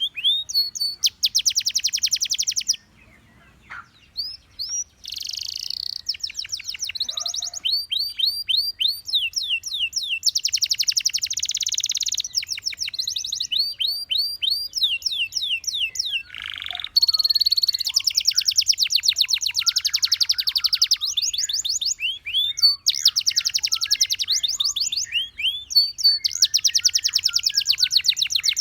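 Gloster canary singing a long song of fast trills and rapid repeated rising notes, with a short pause about three seconds in before the song carries on.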